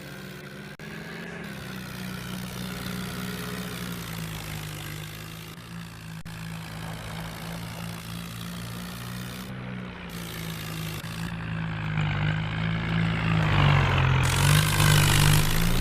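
Tractor engine running steadily, growing much louder over the last few seconds.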